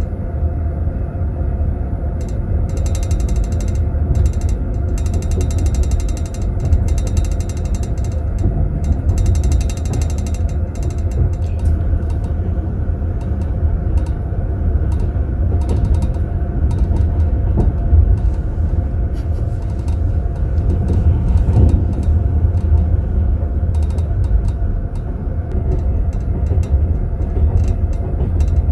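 Passenger train running, heard inside a sleeping-car compartment: a steady low rumble from the wheels and track. Over it, for roughly the first ten seconds, a rapid rattling tinkle of teaspoons in tea glasses in metal holders shaken by the ride, thinning out afterwards.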